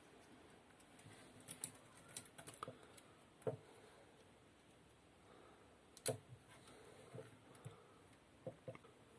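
Faint, scattered clicks and taps of plastic wiring connectors being handled and plugged together while an e-bike throttle is connected, the sharpest about three and a half and six seconds in.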